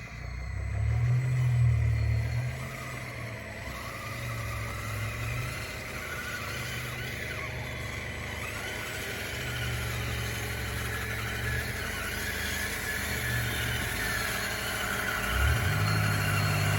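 DXR2 RC bulldozer's electric drive whining as it works, its motor hum starting and stopping in repeated bursts with gliding gear whine above. Loudest about a second in, with another strong burst near the end.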